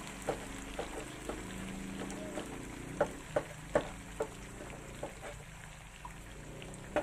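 Tomato pieces and fried onions sizzling and bubbling in oil in a non-stick wok, with sharp pops and clicks at irregular moments, several in a row about three to four seconds in.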